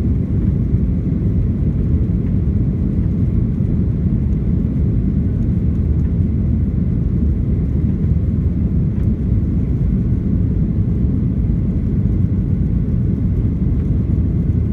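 Steady low cabin noise of a Boeing 737-800 in flight shortly after takeoff: its CFM56-7B turbofans and airflow heard from a window seat inside the cabin.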